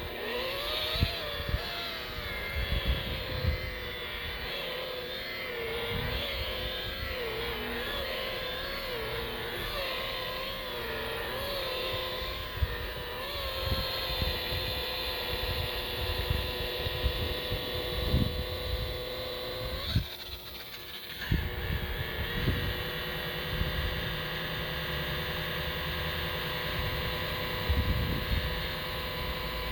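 DeWalt DWP849X rotary buffer running against the gelcoat while compound is cut in. Its motor whine wavers in pitch for the first dozen seconds, then holds steady, with scattered low bumps. The whine drops out briefly about twenty seconds in and then picks up again.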